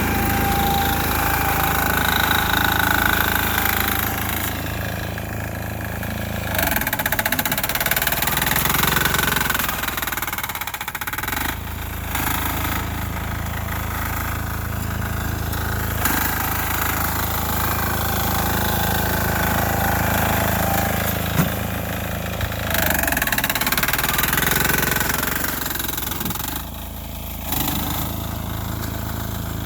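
A 6 HP air-cooled single-cylinder diesel engine powering a Sears Suburban garden tractor, running steadily under working load. Its note sags and recovers several times. There is a single sharp knock about two-thirds of the way through.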